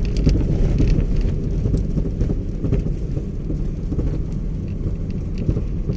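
Steady low rumbling noise of a moving vehicle, with wind buffeting the microphone and a few faint rattles.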